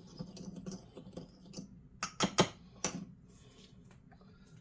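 Light clicks and taps of kitchen items being handled, with a few sharper knocks about two to three seconds in.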